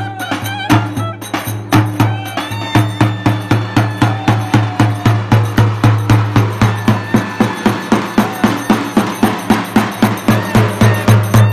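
Live traditional folk dance music: a drum beaten in a fast, steady rhythm of about four strokes a second, with a wind instrument playing a warbling, sliding melody over it.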